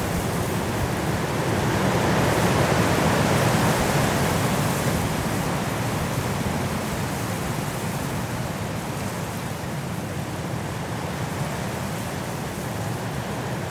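Strong wind blowing through forest trees in a mountain snowstorm, a steady rushing that swells in a gust about two to four seconds in and then eases.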